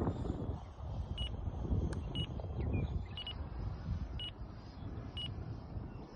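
Wind buffeting the microphone in a rough low rumble, with a short high electronic beep repeating about once a second.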